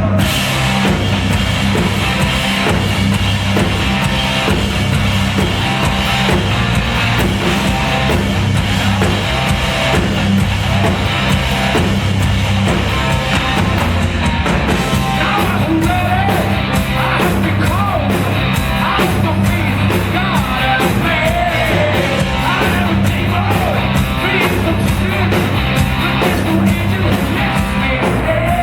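A hard rock band playing live, loud and steady: distorted electric guitars, bass and drum kit, with a lead vocal over the band in the second half.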